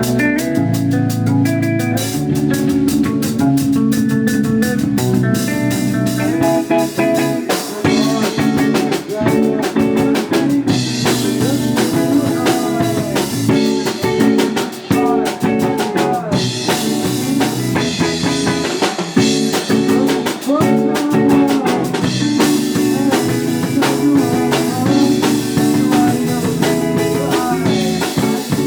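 Live band music: electric guitar and drum kit playing a song, with some singing.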